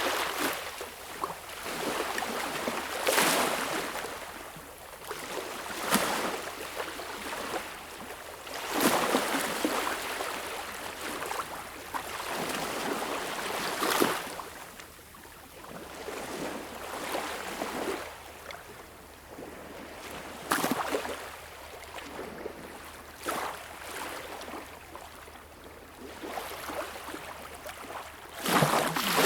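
Small, calm sea waves breaking and washing up a beach. Each wave arrives as a sudden hiss that fades away as the water runs back, about eight times with uneven gaps of two to six seconds.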